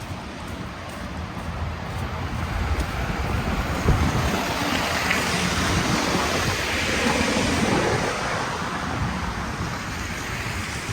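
A vehicle passing on a snow-covered street, its tyre hiss swelling over several seconds and then fading, with wind rumbling on the microphone.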